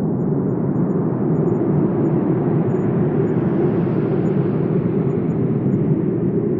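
Wind blowing steadily with a low rushing sound, swelling into a stronger gust about halfway through and then easing off.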